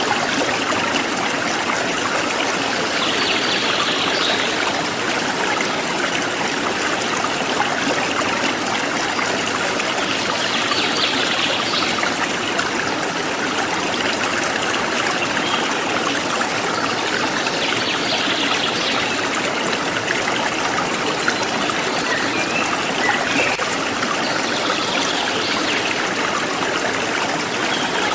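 Forest stream flowing steadily over rocks, a continuous trickling and rushing of water, with brief high chirps, likely birds, about every seven seconds.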